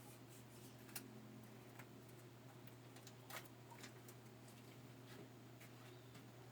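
Near silence: a faint steady hum with scattered faint clicks and ticks at irregular moments.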